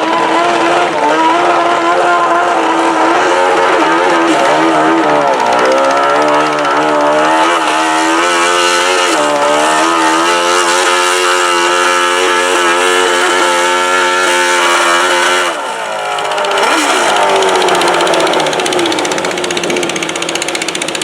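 Modified pulling garden tractor's engine running hard at high revs under load, its pitch sagging twice along the way. About fifteen seconds in the sound drops off sharply, then the engine note falls away as it winds down.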